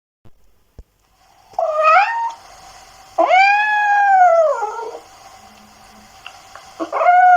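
A small domestic animal giving three drawn-out, wavering cries. The first is short and rising, the second long, swelling up and then falling away, and the third begins near the end.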